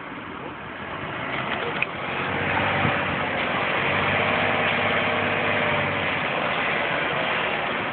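Garbage truck's engine revving under load while the truck is stuck in snow. It builds from about a second in, holds high for several seconds with its pitch rising slightly and falling back, then eases off near the end.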